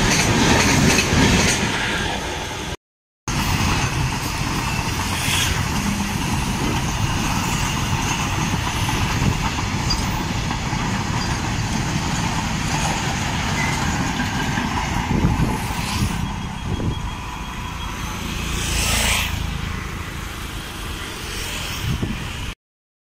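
For the first few seconds, passenger train coaches rattle past at speed. Then, after a sudden cut, there is steady road-traffic noise with a few vehicles passing.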